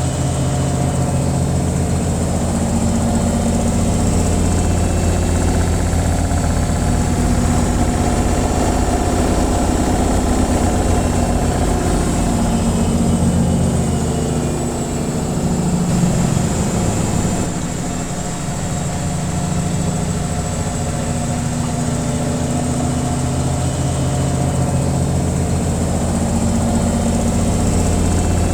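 Washing machine running its spin cycle: a steady motor hum and drum rumble that eases off briefly about halfway through, then picks up again.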